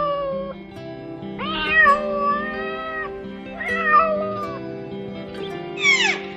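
A domestic cat meowing three times in long, drawn-out meows, the longest about a second and a half in, over steady background music.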